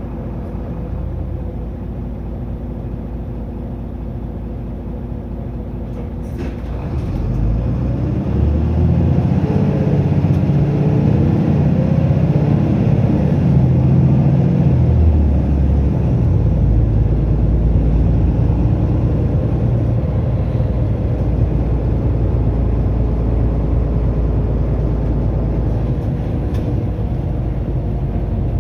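Mitsubishi Fuso Aero Star LKG-MP37FKF city bus, with its six-cylinder turbo-diesel engine heard from inside the cabin. The engine runs quietly for the first few seconds. About six seconds in it is driven hard, and its note climbs and shifts through about ten seconds of acceleration before settling into a loud steady run at speed.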